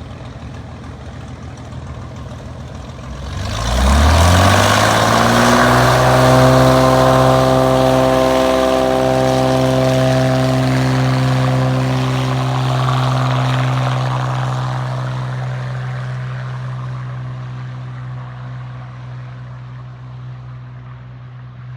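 Floatplane's piston engine and propeller throttling up to takeoff power about three and a half seconds in, the pitch rising quickly. The engine then runs steadily and loud, and slowly fades as the plane takes off and moves away.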